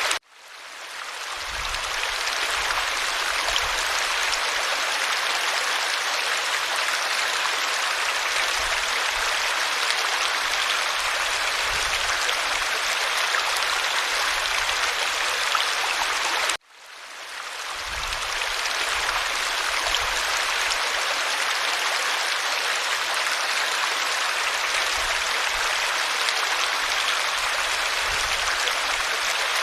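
A stream running steadily, with an even rush of water. The sound cuts out abruptly twice, just after the start and about halfway through, and fades back up over a second or two each time.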